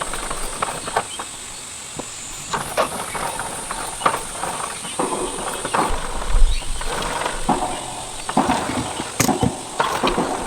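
Irregular clinks and knocks of hand tools being worked on metal, over a steady high hiss.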